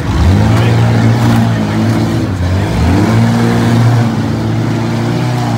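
Six-cylinder demolition derby car engines revving hard under load as the cars push against each other. The revs are held high, dipping and climbing again a couple of times.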